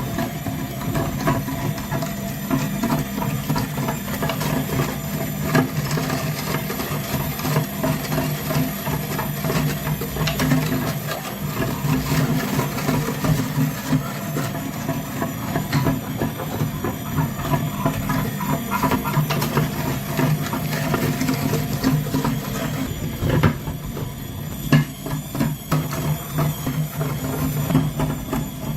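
A small motor running steadily, with a constant clatter of clicks and knocks over a low, even hum.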